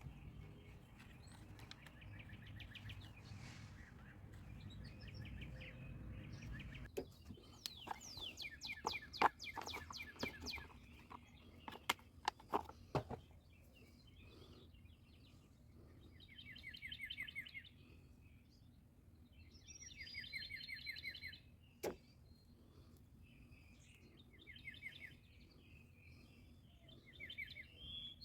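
Small birds calling in short rapid chirping trills that repeat every few seconds, over faint outdoor background noise. A cluster of sharp clicks and knocks comes about a third of the way in, and a single sharp click follows later.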